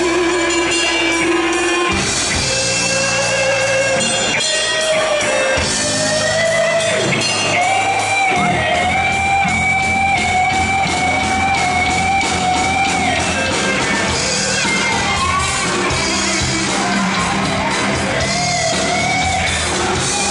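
Rock music: a band with guitar and drums playing, with a long wavering melody line held through the middle of the passage.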